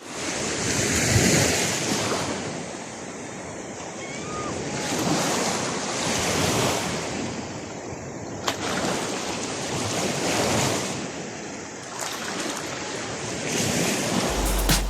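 Ocean surf: waves breaking and washing in, swelling and fading every few seconds, with wind buffeting the microphone.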